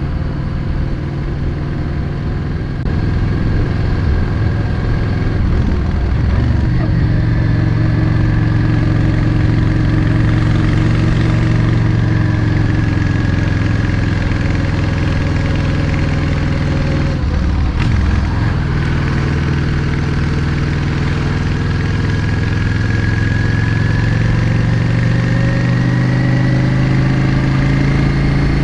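Yamaha XVS 650 Drag Star's air-cooled V-twin running on the road. It gets louder about three seconds in. The note breaks briefly about six seconds in and again about eighteen seconds in, as at gear changes, and climbs steadily after each break as the bike accelerates.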